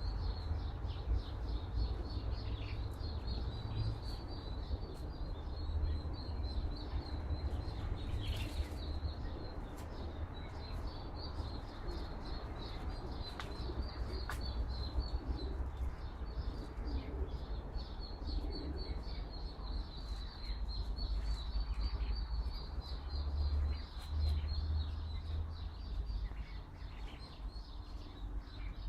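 Wind rumbling on the microphone, with a small bird chirping in quick, steady runs in the background that pause briefly now and then.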